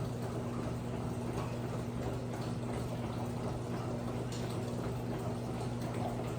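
Electrolux LPE16 washing machine running with water flowing through it, a steady low hum under the rush of water.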